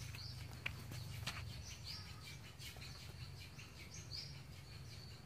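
Birds chirping, a few short high calls repeating, over a steady low rumble, with two faint clicks about a second in.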